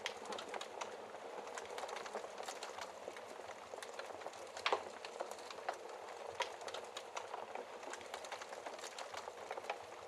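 Log fire burning in a fireplace: a steady hiss of flames with irregular crackles and sharp pops from the wood, one of the louder pops about halfway through.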